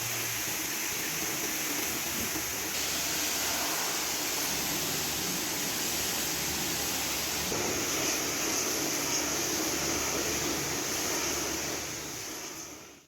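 Steady loud hiss from car-cleaning equipment with a low motor hum underneath. It changes abruptly twice and fades out near the end.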